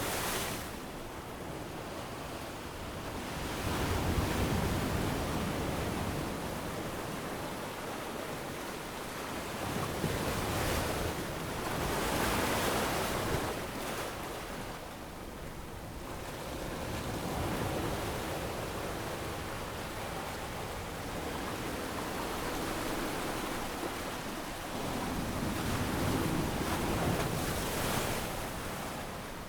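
Ocean waves breaking and washing up a beach, the surf swelling and falling back in slow surges every several seconds.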